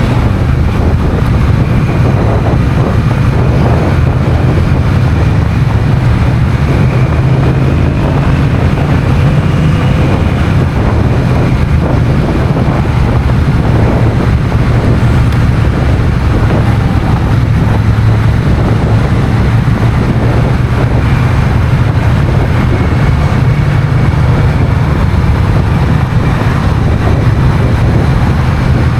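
Honda CMX1100 Rebel's parallel-twin engine running steadily as the bike is ridden, with wind noise on the microphone.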